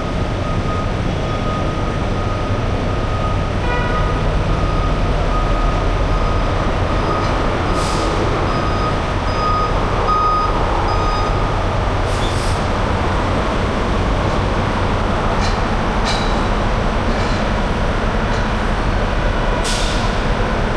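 Heavy diesel engine running steadily, with a vehicle's backup alarm beeping in the first half, and a few short sharp clanks or hisses scattered through.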